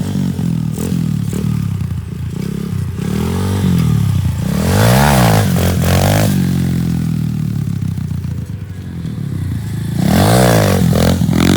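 Pit bike engine running and revved hard twice, rising and falling about five seconds in and again near the end: revving to high RPM in second gear to kick the bike up into a clutchless wheelie.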